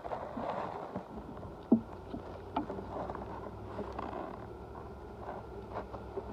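Wooden beehive frames knocking and scraping against the hive box as they are slid back into place, with one sharp knock a little under two seconds in and several lighter ones after, over a steady low hum.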